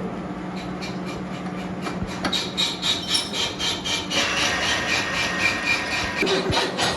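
Workshop machinery with a steady hum, and a fast run of rasping, scraping strokes, about five a second, that starts about half a second in and grows louder about four seconds in, with a faint high ring.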